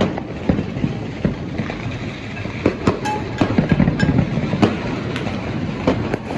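Fireworks and firecrackers going off: a dense, irregular run of sharp pops and bangs, over a constant low rumble of wind on the microphone.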